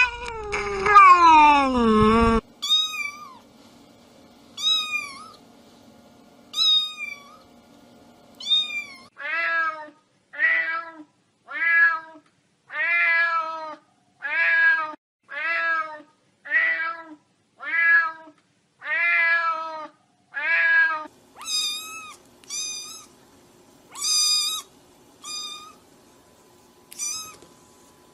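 Cat meows played in a repeating series: a long falling meow at the start, then short high mews about every two seconds, then a run of lower, even mews about one a second, and higher mews coming closer together near the end.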